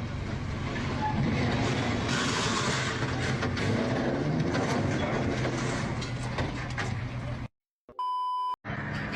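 A vehicle engine running steadily amid rumbling traffic-like noise and scattered knocks. It cuts off abruptly after about seven and a half seconds, and a short steady electronic beep follows near the end.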